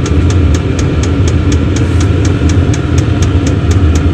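VEVOR all-in-one diesel heater running hard during warm-up: a loud, steady hum from its blower and burner, with the fuel pump ticking evenly about four times a second.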